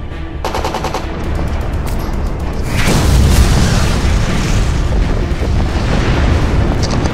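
War-movie sound effects over music: a rapid burst of machine-gun fire early on, then an explosion about three seconds in, with a heavy rumble that carries on.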